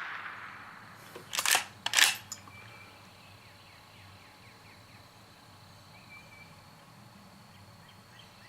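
Henry .22 lever-action carbine being cycled between shots: two sharp metallic clacks about half a second apart as the lever is worked open and shut, after the fading echo of the previous shot.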